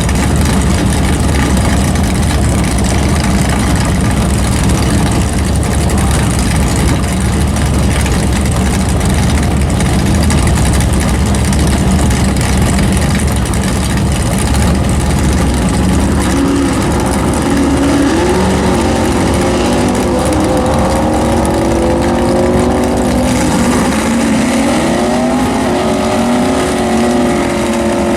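Car engines running loudly. A steady low rumble gives way, about halfway through, to engines revving up and down.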